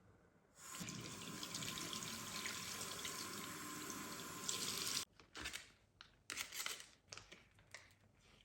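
Water running steadily, starting about half a second in and cut off suddenly about five seconds in, followed by a few short splashes and knocks.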